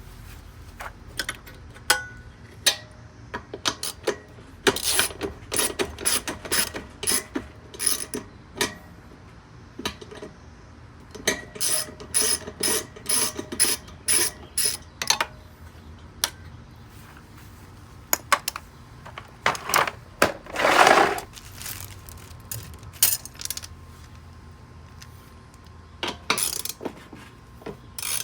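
Hand tools working on metal fittings: sharp metallic clicks and clinks in runs, with a louder rasping scrape lasting about a second about twenty seconds in.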